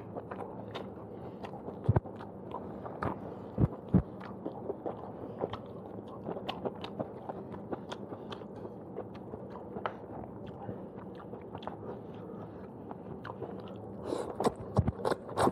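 Close-up chewing of fried udon noodles and scrambled egg: wet, sticky mouth sounds and small clicks, with a few soft knocks. Near the end a louder flurry as noodles are slurped in.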